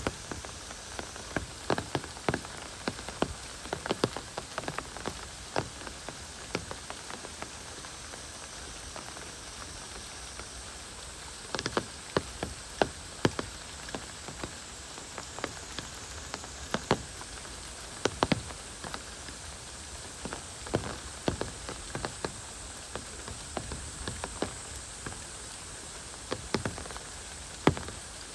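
Heavy rain falling steadily, with irregular sharp taps of large drops landing close by.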